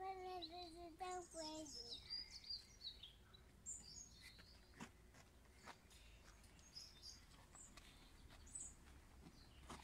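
Quiet outdoor ambience with scattered short, high bird chirps. A child's voice is heard faintly for the first couple of seconds.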